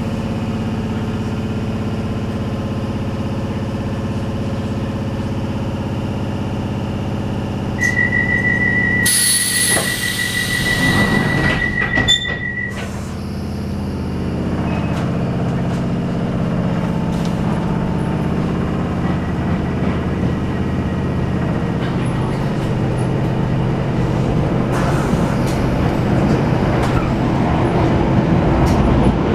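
London Underground 1973 tube stock train humming at the platform, then a steady pulsing beep for about five seconds, a loud air hiss and a knock as the doors close. From about halfway through it pulls away, the motor tone rising and the running noise growing steadily louder.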